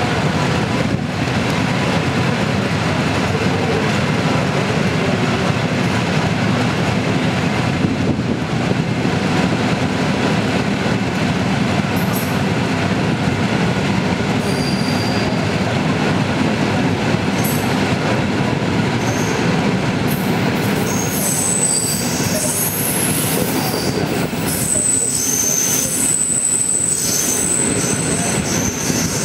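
Passenger train departing, heard from on board: the steady rumble of carriage wheels running on the rails, with high-pitched wheel squeals that come and go in the second half.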